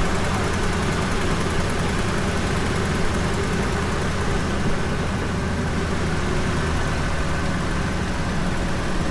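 Ford 5.4-litre Triton V8 in a 2008 F-250 idling steadily, running on the remote start.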